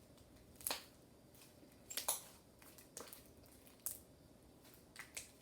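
Slime thickened with toilet paper being kneaded and mixed by hand: a handful of short, scattered squelches and clicks.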